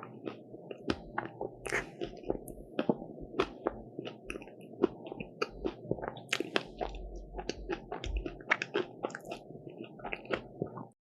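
Close-miked biting and chewing of a crisp croffle (croissant-waffle), a dense run of crunchy crackles that cuts off abruptly near the end.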